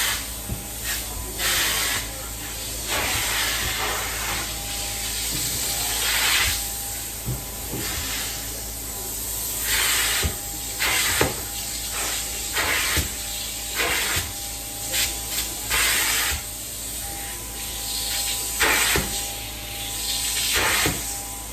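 Carpet-cleaning extraction wand hissing steadily as it sprays and vacuums, surging in short repeated bursts every one to two seconds as it is worked back and forth.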